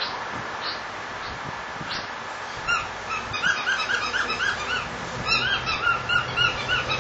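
Pet cockatiel whistling a tune: a few scattered short chirps, then from about three seconds in a quick run of short, arched whistled notes, several a second.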